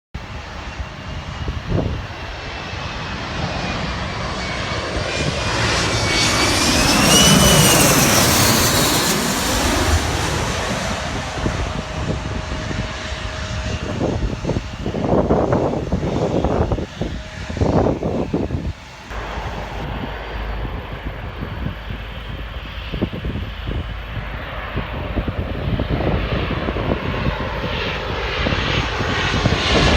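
An airliner flying low overhead as it comes in to land. Its engine roar builds to a peak about seven seconds in, with a high turbine whine that bends in pitch as it passes. The noise then carries on more steadily, with gusts of wind buffeting the microphone around the middle.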